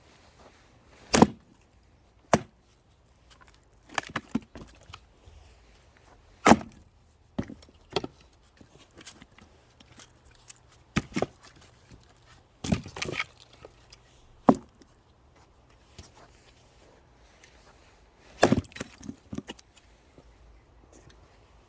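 Axe blows splitting firewood logs: about a dozen sharp chopping strikes at uneven intervals, one to several seconds apart.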